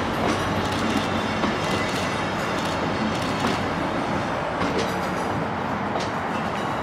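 Freight train of loaded hopper wagons rolling past at close range: a steady rumble of steel wheels on rail, with irregular knocks as the wheels pass over rail joints.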